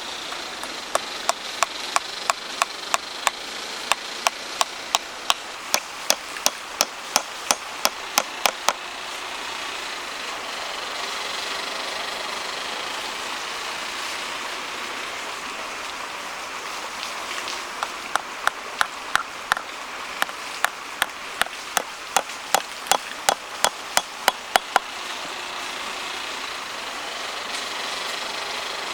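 A hand tool striking wood in quick, evenly spaced blows, about three a second, in two runs of some eight seconds each with a pause of nearly ten seconds between them.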